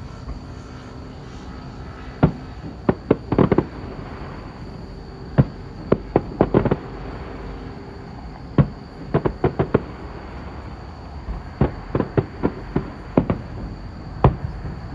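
Fireworks shells bursting in quick clusters of sharp bangs, several shells to a group, with pauses of a second or two between groups. A steady low background rumble runs underneath.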